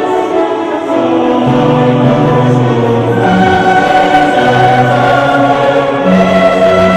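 Choral music: a choir singing long held notes over orchestral accompaniment.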